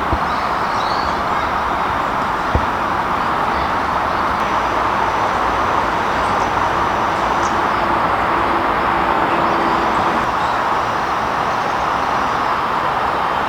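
Gas camping lantern burning with a steady hiss, a freshly fitted mantle lit and burning off. A single short knock about two and a half seconds in.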